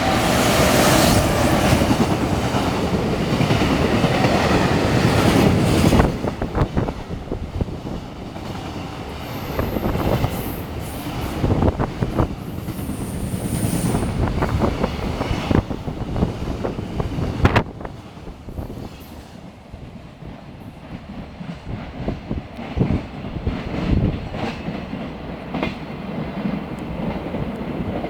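Freight train passing close by. A loud rush for about the first six seconds, then the wagons clicking and clattering over the rails, somewhat quieter in the second half.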